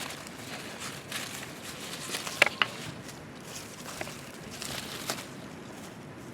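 Scattered rustling and crunching of sweet potato vines and dry soil being handled while the vines are buried, with two sharp clicks about two and a half seconds in.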